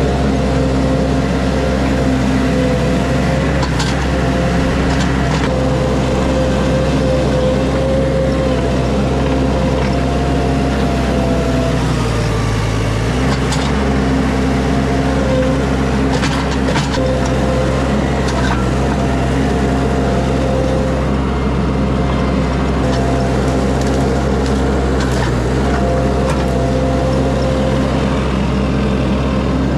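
A vehicle engine running steadily, a continuous low drone whose pitch shifts slightly a few times.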